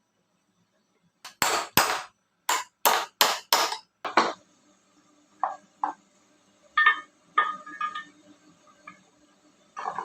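Hammer striking metal: a quick run of about seven sharp blows over roughly three seconds, followed by a few lighter metallic clinks.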